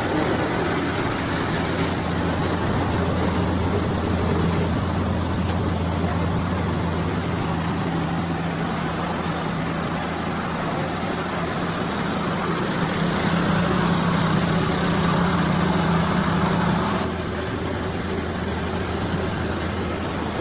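Single-phase rubber-roller rice milling machine running: a steady machine hum over a broad rushing noise. Near the end the sound drops slightly and one of its hum tones stops.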